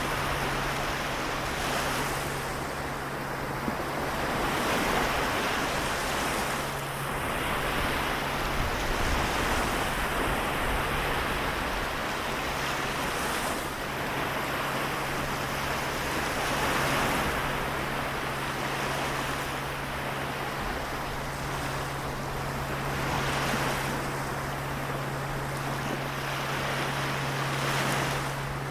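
Small waves of the Seto Inland Sea washing in, the surge swelling and easing every few seconds. A steady low hum runs underneath.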